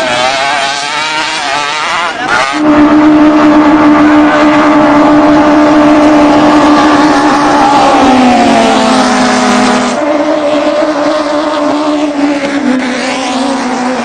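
Racing boat engines running flat out at a high, steady pitch, the note stepping down slightly partway through. The sound changes abruptly twice, as if cut between different runs.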